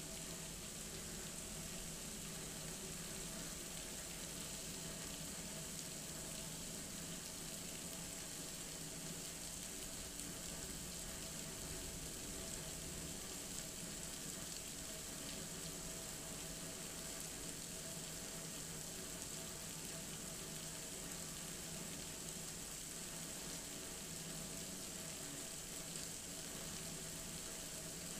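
Heavy rain pouring down in a thunderstorm: a steady, even rush of water that does not let up, with a faint steady hum underneath.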